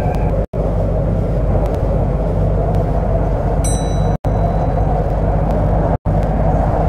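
MTR C-Train electric multiple unit running between stations: a steady, loud low rumble of wheels on rail and running gear. The sound cuts out for an instant three times.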